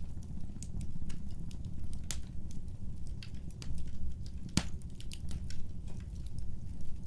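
Wood fire burning, with a low steady roar of flames and irregular sharp crackles and pops, one louder pop about two-thirds of the way through.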